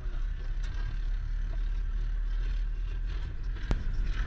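A steady low engine rumble, with one sharp click about three and a half seconds in.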